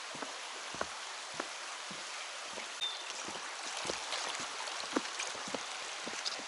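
Mountain stream flowing steadily, with footsteps on a forest trail knocking lightly about every half second and a short high bird chirp about three seconds in.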